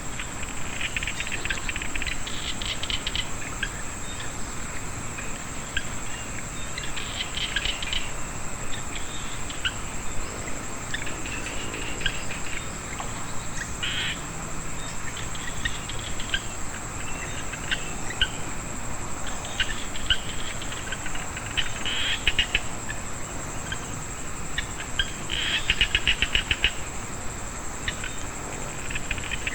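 Chorus of frogs and insects after rain: a steady high-pitched insect drone throughout, with short rattling bursts of rapid frog calls every second or few.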